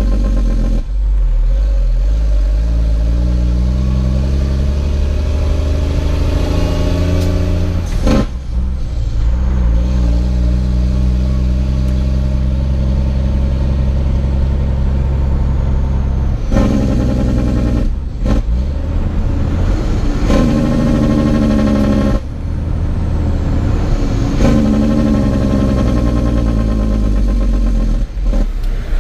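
Heavy truck's diesel engine pulling through the gears of an 18-speed manual transmission. The revs climb, then break off and drop briefly at each of several gear changes before pulling again.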